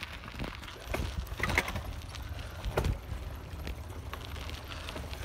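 Bicycle rattling and knocking over bumpy dirt, with irregular clatters a second or so apart, over a low rumble of wind on the handlebar-mounted phone's microphone.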